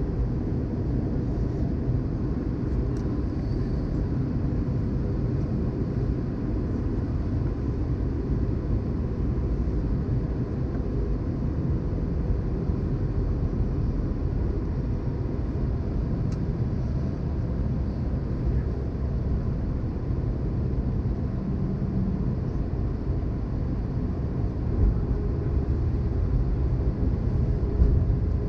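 Steady cabin noise of an Airbus A320-214 on approach: a low, even rumble of airflow and its CFM56 engines, with a faint steady hum.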